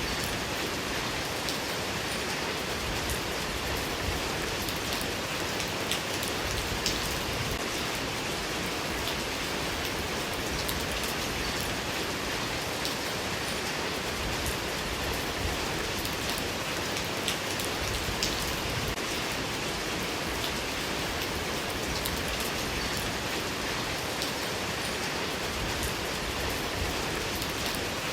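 Steady rain falling, a dense even patter with scattered sharper drops striking a surface.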